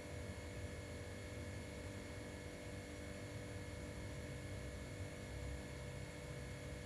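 Steady low hum with faint hiss and a few constant tones. Nothing starts or stops.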